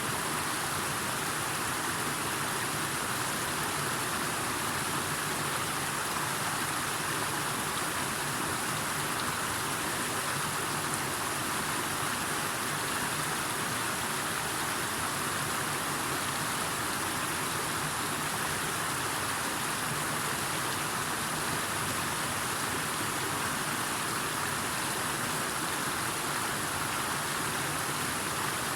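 Steady, unchanging rushing of water.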